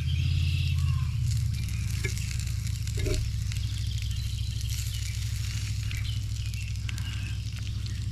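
Bacon and onions sizzling and crackling in a hot cast-iron Rome Dog'n Brat Cooker pie iron, with a few light clicks, over a steady low hum.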